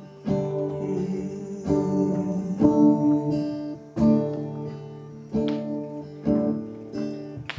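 Acoustic guitar strummed in slow chords, one stroke roughly every second, each chord left to ring, as the introduction to a worship song.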